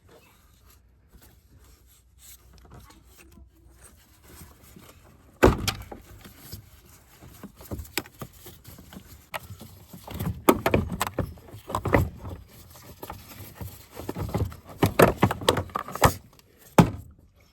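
Plastic air filter box being worked loose and pulled out of a Ford EcoSport's 1.5 TDCi engine bay: faint handling at first, then from about five seconds in a run of irregular sharp knocks, clunks and rattles.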